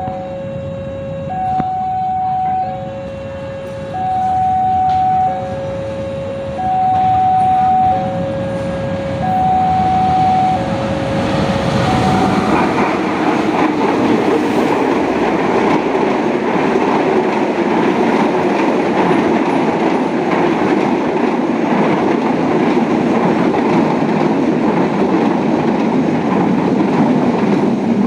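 A warning alarm, likely a level-crossing alarm, sounds two alternating tones, each held about a second and a quarter, evenly repeated. About twelve seconds in, a CC 206 diesel-electric locomotive and its passenger coaches pass close by at high speed: a loud, steady rumble of engine and wheels on rail that lasts to the end.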